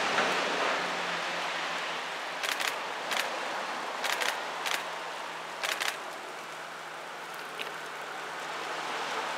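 Electric train approaching on the line, still some way off: a steady rushing noise with a low hum that grows louder toward the end. A handful of short sharp clicks come in the middle.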